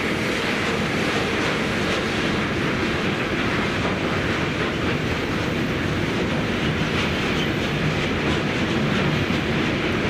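A train running past at steady speed, its wheels clattering over the track with faint repeated clicks.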